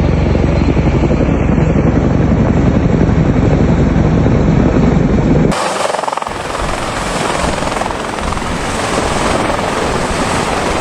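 CH-47 Chinook helicopter rotors and engines running, a loud, rapidly pulsing beat of the blades. About halfway through, the sound cuts abruptly to another take with less deep beat and more hissing rush.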